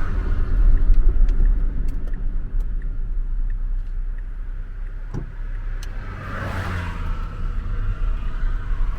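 Car driving slowly, with a steady low engine and road rumble, a single knock about five seconds in, and a brief swell of noise at about six to seven seconds.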